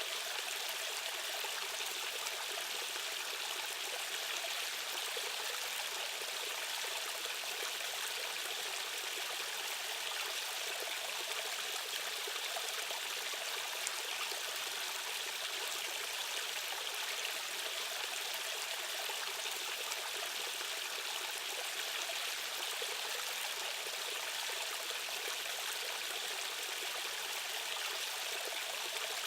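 Rushing water of a fast-flowing stream current, a steady even splashing hiss with little low rumble and no change throughout.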